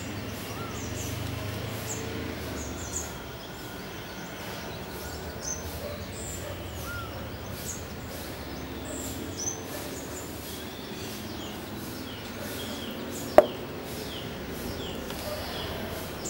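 Birds chirping in short calls, some falling in pitch, over steady outdoor background noise. One sharp knock comes about thirteen seconds in.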